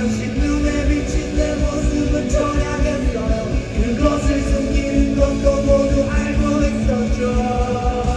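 Live rock band playing loud: a steady drum beat under sustained guitar chords, in a stretch without sung lyrics.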